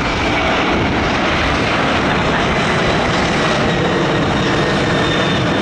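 Jet engines of a Boeing 767 airliner, heard as a loud, steady rushing noise that holds level throughout.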